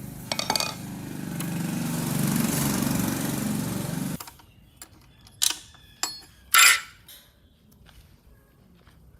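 A motor-driven power tool runs with a steady hum that grows louder, then cuts off suddenly about four seconds in. Three sharp metallic clinks follow.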